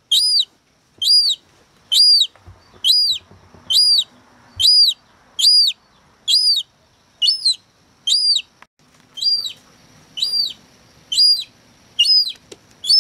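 Young herring-type seagull chick peeping: a steady series of high, thin calls that rise and fall in pitch, about one a second.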